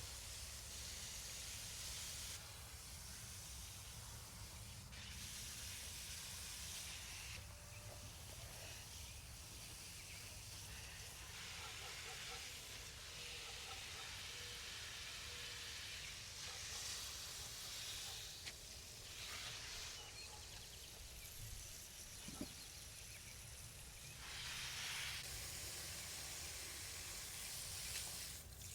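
Steady outdoor hiss that swells and fades in patches every few seconds, with a low rumble underneath and one brief tick near the end.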